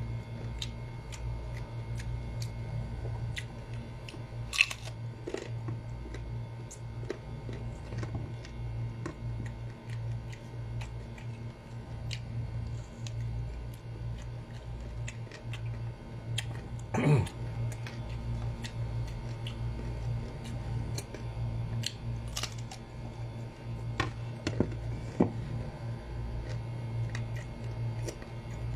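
Chewing and crunching on crisp, raw sour green mango slices, with many small mouth clicks and a few louder ones, the loudest about seventeen seconds in, over a steady low hum.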